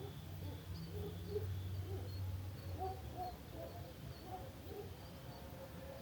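Faint summer-evening ambience: scattered short bird chirps and calls over a faint on-off high cricket trill, with a low hum that fades about three seconds in.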